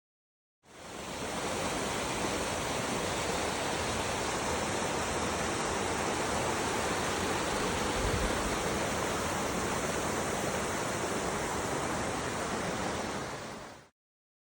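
Waterfall rushing: a steady, even roar of falling water that fades in just under a second in and cuts off near the end.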